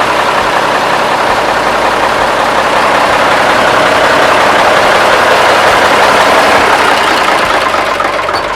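The sawmill's Allis-Chalmers power unit running steadily and loud, smooth enough that the owner says it "purrs like a kitten". It swells slightly in the middle and eases off near the end.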